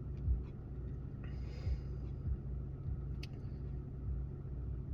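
Steady low rumble of a vehicle, with a short hiss about a second and a half in and a sharp click about three seconds in.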